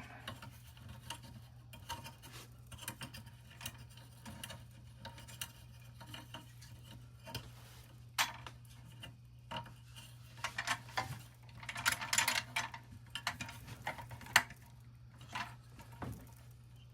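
Small metal toy-truck parts being handled and fitted by hand: scattered light clicks and clinks, a busier stretch of rubbing and clinking about twelve seconds in, and one sharp click shortly after, over a steady low hum.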